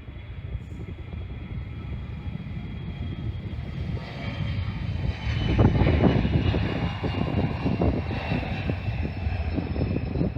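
Jet airliner passing close by, its engine whine sliding slowly down in pitch over a steady rumble that swells to its loudest about halfway through.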